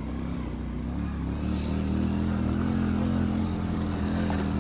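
Motorcycle engine running under way, its pitch and level rising a little about a second and a half in, then holding steady.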